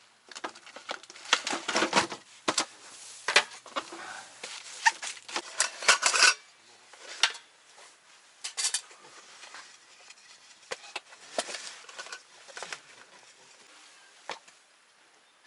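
Irregular clattering, knocking and scraping of hard objects being handled, busiest in the first six seconds and then sparser, single knocks.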